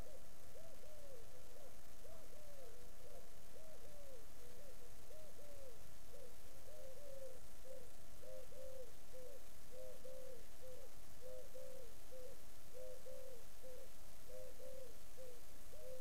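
A bird calling in a steady, unbroken run of short hooting notes, about two to three a second, each note rising and falling in pitch.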